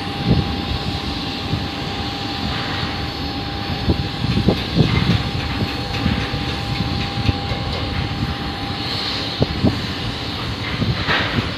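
Fixed-wing aircraft engines running steadily on the ground before take-off: a continuous rushing noise with a steady whining tone, broken by irregular low thuds.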